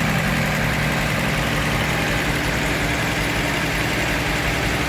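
Mercedes-Benz M110 2.8-litre twin-cam straight-six, fed by a Solex 4A1 carburetor, idling steadily and evenly: a smooth warm idle with the idle mixture screw freshly adjusted.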